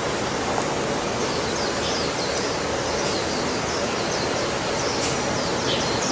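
Steady rushing background noise with faint, short, high bird chirps scattered through it.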